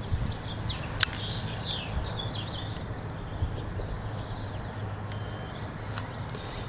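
Small birds chirping and singing in the background, many short quick twittering notes, over a low steady rumble, with one sharp click about a second in.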